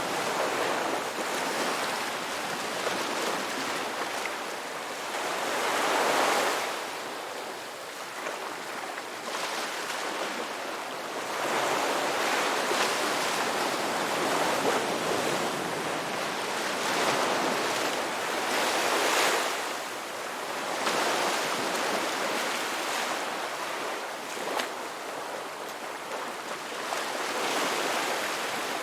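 Ocean waves breaking and washing up the beach, a continuous surf wash that swells every few seconds as each wave comes in.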